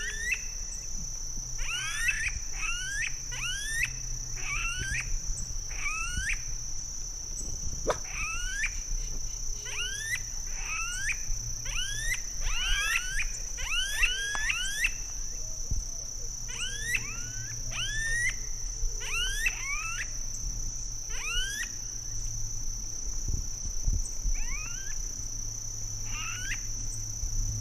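Smooth-billed anis calling: repeated rising, whining whistles, often in quick pairs and overlapping from several birds. A steady high-pitched insect drone runs underneath.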